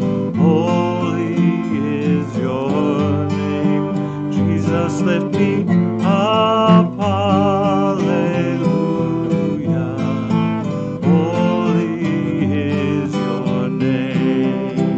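Acoustic guitar strumming chords under a singing voice, a slow worship song.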